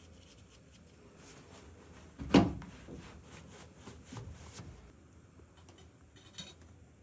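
Light handling noise: one sharp knock a little over two seconds in, followed by scattered soft clicks and rubbing.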